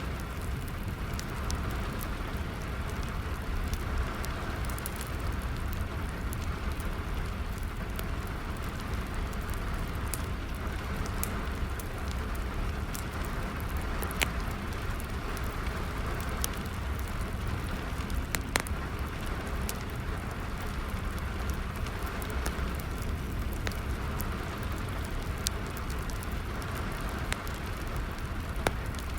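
Steady rain together with a wood fire crackling, with sharp pops scattered throughout and a couple of louder ones midway.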